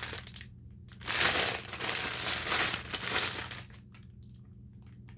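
Packaging crinkling and rustling as it is handled, loudest from about a second in to past the middle, then dying away.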